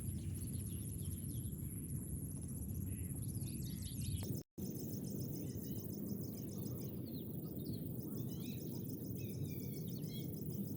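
Outdoor ambience on an open grassy ground: a steady low rumble, insects chirping in a fast, even, high-pitched pulse, and birds calling now and then. The sound drops out completely for a moment about four and a half seconds in, at an edit cut.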